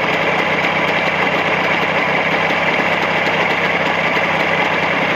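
Jawa motorcycle's two-stroke engine idling steadily at running temperature during break-in on new Chinese cylinders, running smoothly with no seizing.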